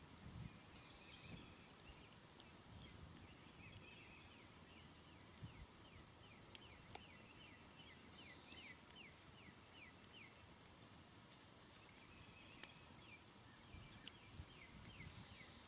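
Faint smoldering campfire with sparse small crackles and pops. Three times a distant songbird sings a quick run of short downslurred notes.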